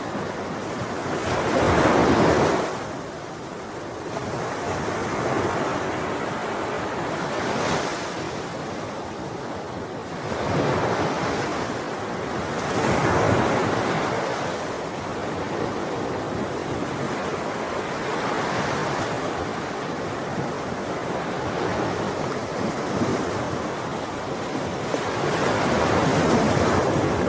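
Ocean waves breaking and washing on a shore, with the surf swelling into louder crashes about two seconds in, again around thirteen seconds and near the end, and easing back between them.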